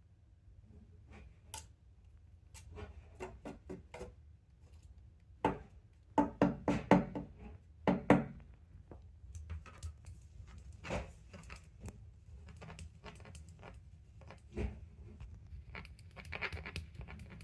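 Irregular clicks and knocks of a cat toy being shaken and swung hard, with a cluster of louder knocks about six to eight seconds in.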